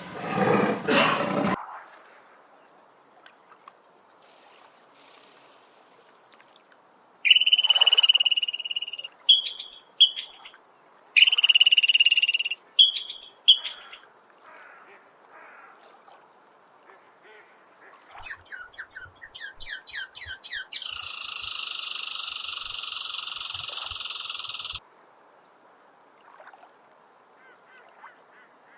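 A sequence of different animal calls: the end of a roar, then a few short high whistling calls, then a rapid run of clicking pulses that turns into a steady high buzzing trill for about four seconds.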